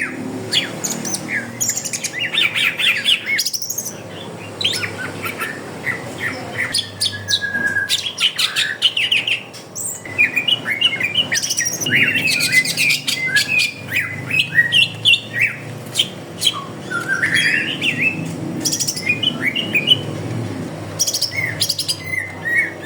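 Many caged songbirds chirping, trilling and squawking at once, a dense mix of overlapping calls and songs from several species.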